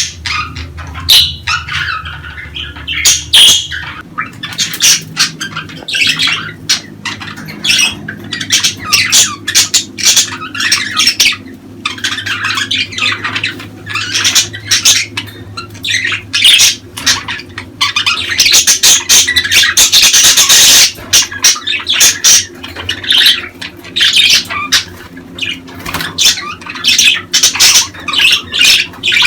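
Budgerigars (budgies) chattering as a flock: a steady stream of rapid chirps, warbles and squawks. There is a louder harsh burst about two-thirds of the way through.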